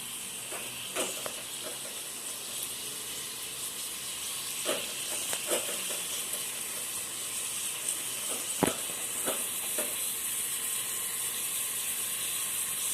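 Fresh curry leaves and whole spices frying in hot oil in a clay pot: a steady, high-pitched sizzle that grows slightly louder, with a few sharp pops and clicks scattered through it.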